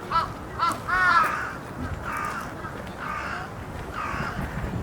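Crows cawing: three loud caws in the first second or so, then fainter caws repeating.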